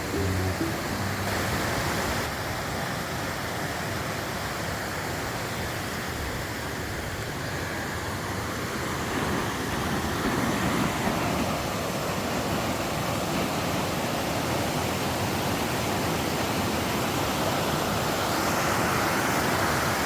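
Steady rush of a river's flowing water, an even noise with no breaks.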